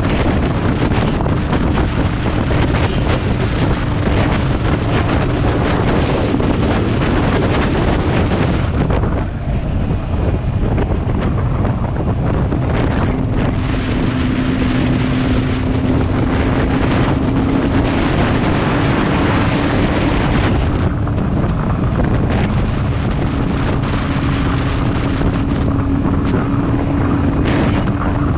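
Heavy wind rush on the microphone of a moving motorcycle, with the engine's steady drone underneath. About nine seconds in the sound eases off briefly and the drone drops out, then comes back at a slightly lower pitch.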